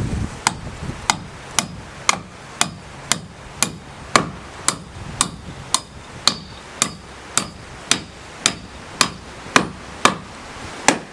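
Hammer driving nails: about twenty steady, evenly spaced blows, roughly two a second.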